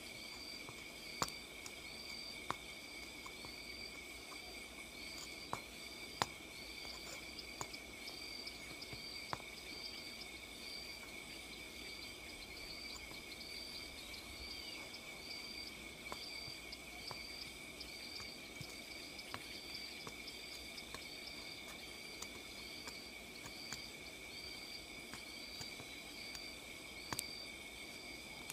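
Night insects and crickets chirring steadily, with a high chirp repeating a little more than once a second and a few sharp clicks scattered through.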